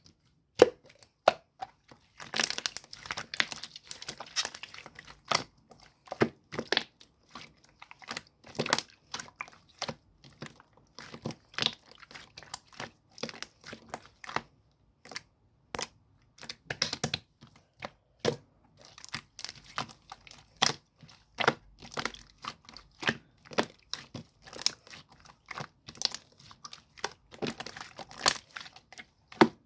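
Translucent slime being squeezed, folded and stretched by hand, giving a running series of short sticky clicks and pops with bursts of crackling.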